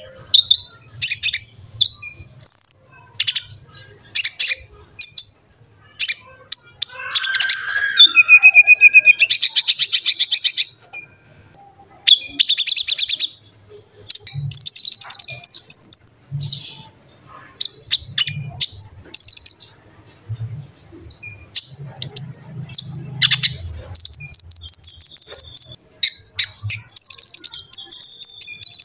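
A sunbird (Indonesian 'konin' or kolibri ninja) singing energetically: fast, high-pitched chirps and sharp notes, with longer rapid trills, including a dense rattling trill roughly a third of the way in.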